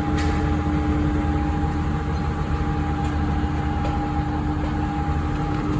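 Heavy diesel engine of a Tadano GR-500EX crane running steadily, a low rumble with two even tones held over it.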